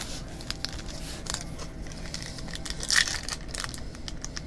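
Packaging being unpacked from a box of trading cards: crinkling and tearing of wrapper and cardboard, with scattered small clicks and a louder rustle about three seconds in.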